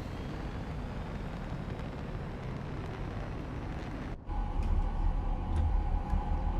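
Airplane noise: a steady rushing rumble that cuts off abruptly about four seconds in. A louder rumble follows, with a steady hum and a few sharp clicks over it.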